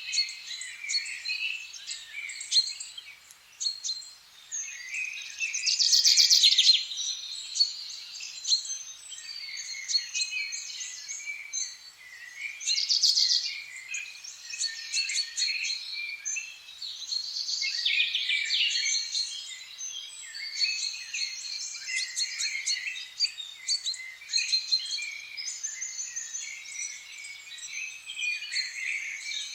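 Many songbirds singing and calling together in a dense chorus of short chirps and trills, with louder bursts of song about six, thirteen and eighteen seconds in.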